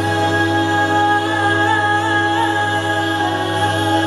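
Vocal ensemble singing a cappella, holding one sustained chord that stays steady throughout, with a slight vibrato in an upper voice.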